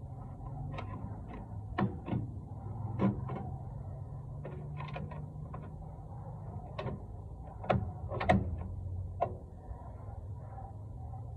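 Irregular metallic clicks and clinks of hand tools on a drum brake's hardware as it is dismantled, about a dozen sharp knocks with the loudest pair near the eight-second mark.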